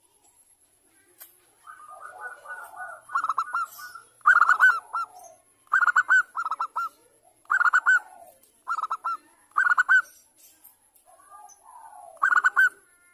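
Zebra dove (perkutut) singing: a series of short cooing phrases, each made of quick repeated notes, with pauses between them. The song starts softly and rough after a quiet opening, then comes louder from about three seconds in.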